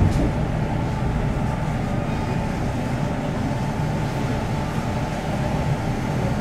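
Another train passing close by on the adjacent track, heard from inside a slowly moving train. There is a sudden rush of noise as it arrives, then a steady rumble.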